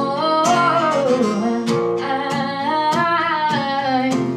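Acoustic guitar strummed, with a voice singing a sliding, drawn-out melody line over it without clear words.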